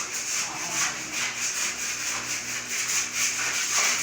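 A hand tool rubbing on a plastered wall in quick, even strokes, about two to three a second, as the wall surface is smoothed during putty repair.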